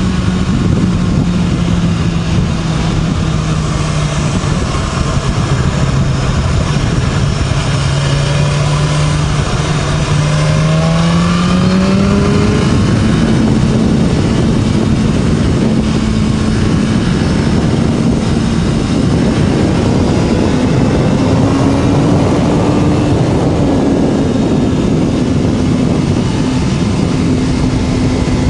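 BMW S1000RR inline-four engine through an Akrapovič slip-on exhaust, running at steady road speed. The note sags a little, rises as the bike accelerates about ten seconds in, and lifts once more near the two-thirds mark. Heavy wind rush runs under it.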